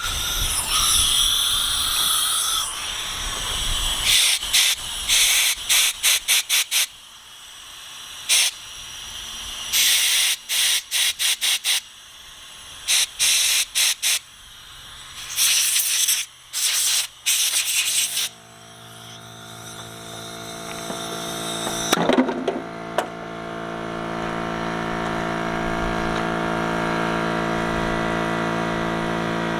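Repeated short blasts of compressed air from a blow nozzle, hissing in quick bursts and clusters, cleaning out small engine carburetor parts. About 18 seconds in, a motor starts and runs steadily, slowly getting louder.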